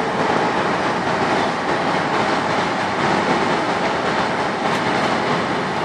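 Diesel railcar train running slowly along a station platform: a steady noise of engine and wheels on the rails as it draws in.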